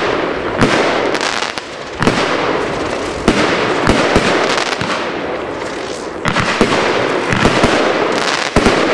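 Black Box 'Shrill Bill' 25-shot firework battery firing. Sharp shots and bursts come every half second to a second, over a steady crackling hiss.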